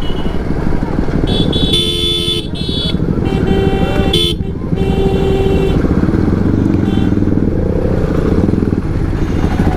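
Motorcycle running at road speed with wind rushing on the microphone, and a vehicle horn honking several times in the first half: a long blast about two seconds in, then two more and a short toot near seven seconds.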